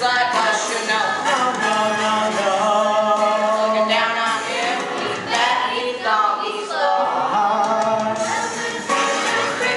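A group of voices singing together in chorus, holding sustained notes in a musical-theatre song.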